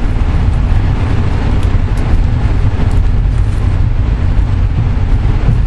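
Steady low rumble of a VIA Rail passenger car running along the track, heard from inside the car, with a few faint ticks.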